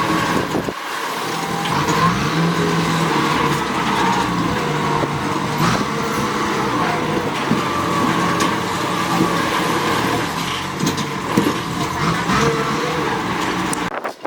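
Engine of a heavy work vehicle running steadily, with a few short knocks over it, cutting off suddenly near the end.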